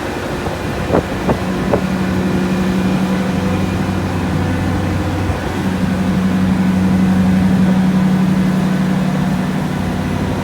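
Diesel locomotive engine running with a steady low hum, growing louder about three and a half seconds in and again about six seconds in as it works harder. A few sharp knocks come between one and two seconds in.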